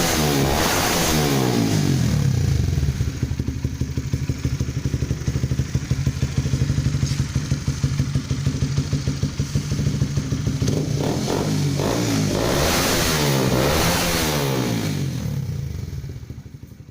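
Honda CB150R Streetfire's single-cylinder engine through an aftermarket Yoshimura-style racing exhaust: a few quick revs, then idling steadily for several seconds, then another series of revs before the sound fades out at the end.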